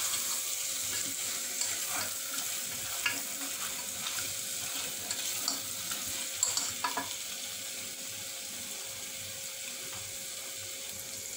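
Mutton pieces sizzling as they fry in thick masala in a pressure cooker pot, stirred with a slotted spatula that scrapes through the pot a few times in the first seven seconds. The sizzle is steady and settles a little quieter later on.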